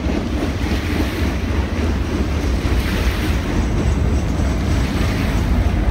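BNSF freight train rolling past at close range, its wheels on the rails giving a steady low rumble, with wind buffeting the microphone.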